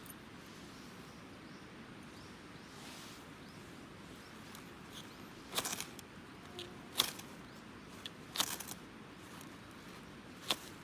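Flint and steel struck four times, each a short sharp scraping click, spaced about a second or two apart over faint steady background noise.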